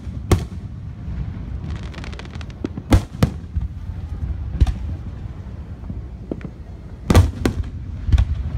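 Aerial firework shells bursting overhead: about seven sharp booms, two of them close together around three seconds in and again around seven seconds in, over a low rumble. A run of rapid crackles comes about two seconds in.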